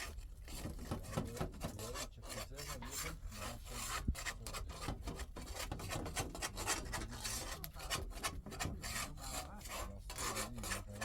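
Hand scraping or rasping strokes, a tool worked back and forth over a surface at about two or three strokes a second.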